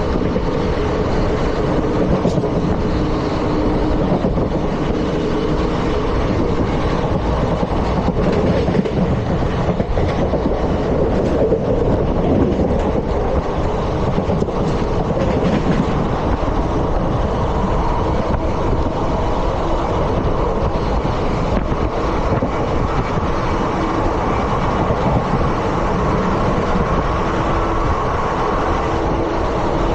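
Indian Railways ICF passenger coach running at speed: a steady rumble of wheels on the rails, with scattered clicks over the rail joints.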